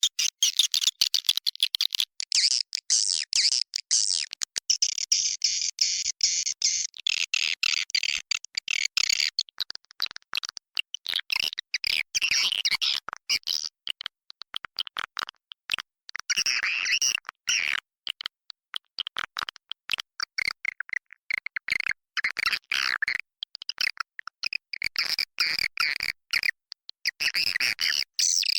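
Recorded calls of many edible-nest swiftlets: dense, rapid twittering chirps and clicks, used as a lure sound to draw swiftlets into a swiftlet house.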